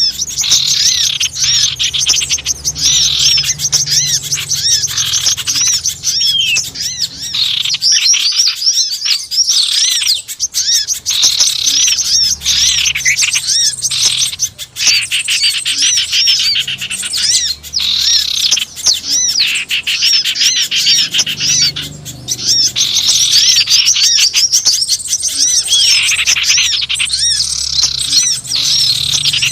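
Bird-lure (pikat) recording of many small wild birds chirping and calling all at once, a dense, noisy chorus of quick high notes with hardly a break.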